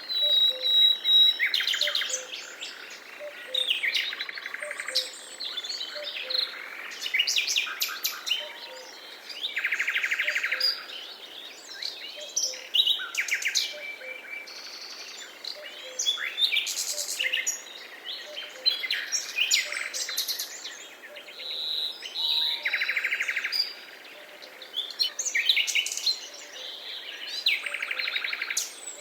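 A chorus of several birds singing and calling, with quick chirps and whistles and rapid buzzy trills that come back every few seconds, over a faint steady background hiss.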